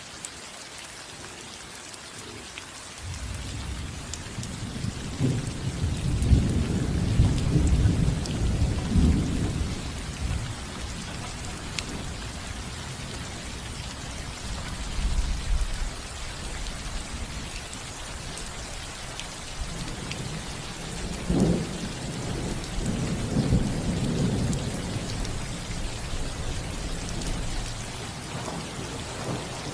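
Steady rain falling on a roof. Thunder rolls in about three seconds in and swells into a long rumble, then a sharper crack comes about two-thirds of the way through, followed by a second long rumble.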